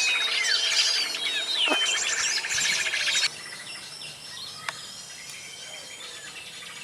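A dense jumble of many different bird calls, whistles and trills from a bird-lure recording (a pikat call compilation) played to attract birds; it cuts off abruptly about three seconds in. After that only faint outdoor ambience remains, with a single short chirp.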